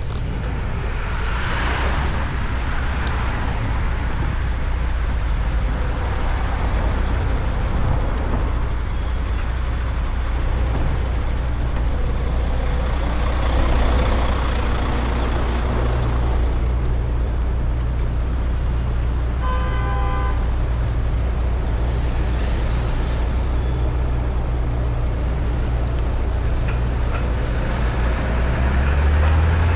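Urban road traffic heard from a motorcycle in city streets: a steady low engine rumble from nearby vehicles, with swells as vehicles pass. A short horn toot sounds about two-thirds of the way through.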